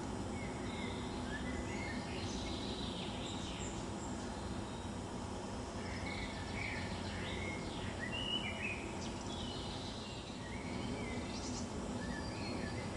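Birds chirping and calling in short, scattered phrases over a steady outdoor background noise.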